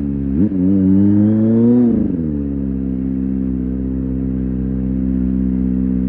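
Kawasaki ZX25R SE's 250 cc inline-four engine: the revs dip and climb briefly, then drop about two seconds in and hold a steady, even note.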